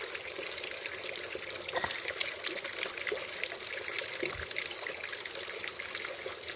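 Hot mineral spring water pouring and splashing steadily.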